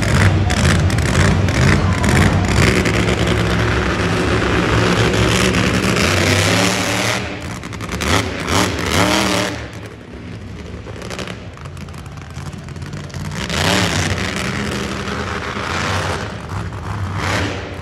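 Monster truck engine running loud and revving, its pitch rising and falling in several surges, with sharp crackling pops over it in the first seconds. It drops to a lower level about halfway through.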